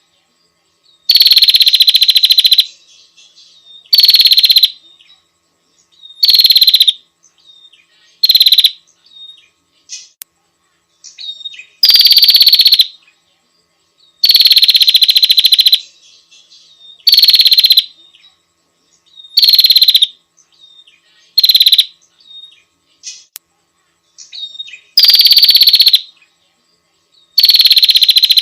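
Female prinia (prenjak) calling for a male: loud, harsh buzzing bursts, each about half a second to a second and a half long, repeated every two seconds or so, with short softer notes between them.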